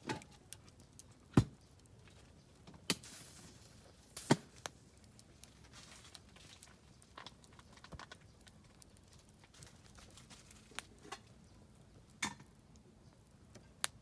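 Oak firewood burning in a campfire, crackling with irregular sharp pops over a low hiss; the loudest pops come about a second and a half in and about four seconds in.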